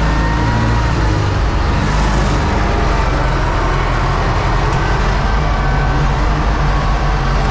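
U650 tractor's four-cylinder diesel engine running steadily and loudly, with a thin high whine above the engine note.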